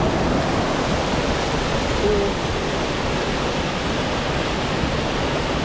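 Bridalveil Fall's water crashing down at the base of the fall: a loud, steady rushing roar.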